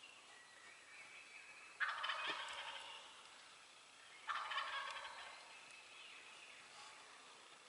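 Wild turkey gobbler gobbling twice, the two rattling gobbles about two and a half seconds apart.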